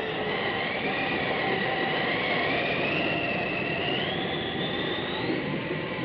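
Eerie haunted-house sound effect from a vinyl LP: a steady rushing noise with high, wavering whistling tones that glide up and down and climb higher near the end.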